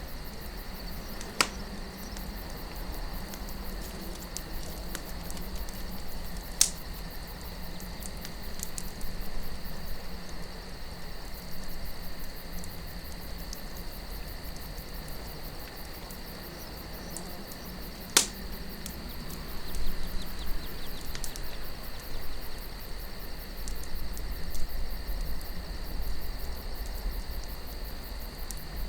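Campfire crackling, with three sharp pops of burning wood standing out and denser crackle in the later part, over a steady chirring of crickets and a low wind rumble.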